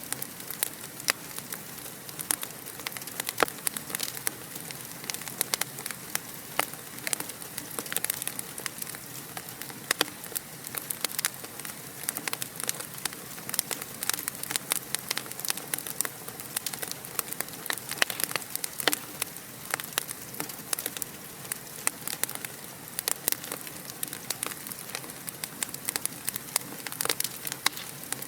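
Fire crackling in a fireplace: a continuous soft hiss with frequent irregular pops and snaps.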